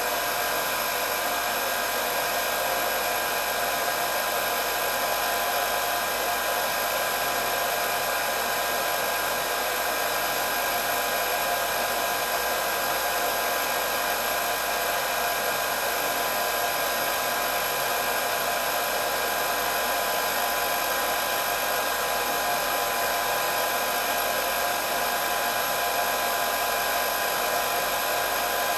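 Electric hair dryer running steadily: a constant rush of blown air with an unchanging motor whine.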